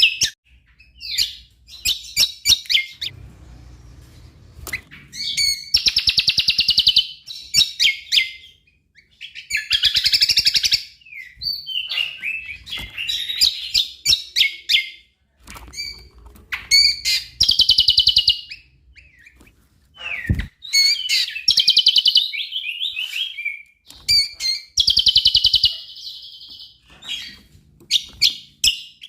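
Cucak kombo songbird singing in full voice: phrase after phrase of rapid, warbling chirps and trills, each a second or two long with short breaks, with a few sharp clicks between phrases.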